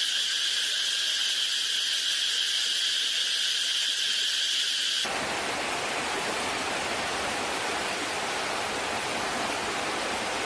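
A steady, high-pitched insect chorus for about five seconds that cuts off abruptly, followed by a steady rushing hiss of water.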